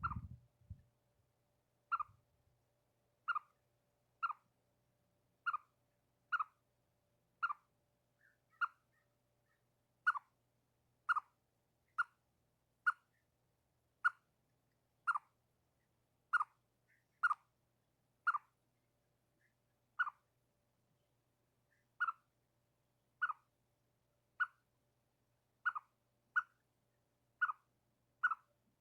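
Chipmunk giving its repeated single-note alarm chirp, a short sharp chip about once a second, kept up steadily: an alarm call at birds it sees as a danger.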